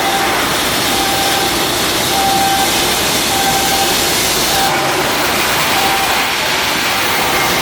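Steady, loud machinery noise, like a large blower or engine running, with a short beeping tone repeating roughly once a second.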